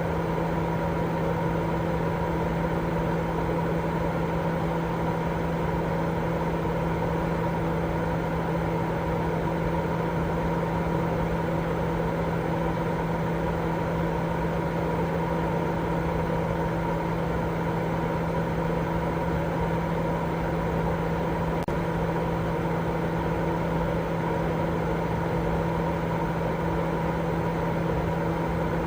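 Continuous sleep-aid white noise: an even, unchanging rushing sound weighted toward the low end, with a steady low hum and a fainter higher tone running through it.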